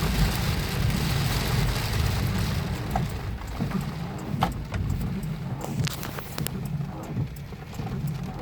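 Rain falling, with scattered sharp drop impacts over a steady low rumble. The rain's hiss thins out about three seconds in.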